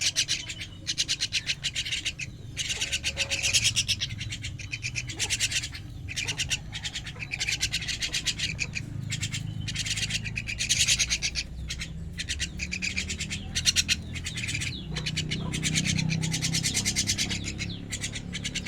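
Young starling chicks giving harsh, raspy begging calls: rapid rattling pulses in bursts of about a second, repeated over and over.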